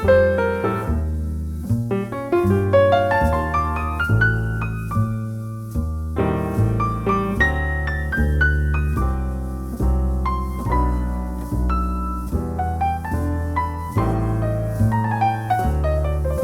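Jazz piano playing a slow ballad: single-note melody lines and chords over sustained low bass notes.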